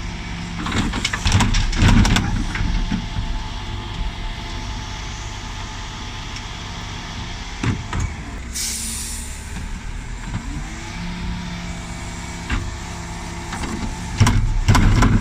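Dennis Elite 6 refuse truck's diesel engine running steadily, with loud bangs and clatter from wheelie bins being tipped on the Terberg lift about a second in and again near the end. A burst of air hiss comes about eight and a half seconds in, and the engine note steps up soon after.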